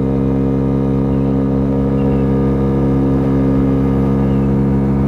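Four-stroke 50cc scooter engine with a big bore kit, running steadily at high revs while cruising near its top speed.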